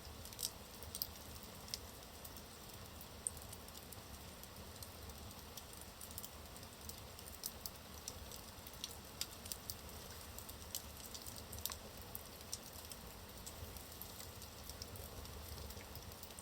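Wood logs burning in a fireplace, crackling faintly with irregular sharp pops and ticks over a low, steady hiss of the flames.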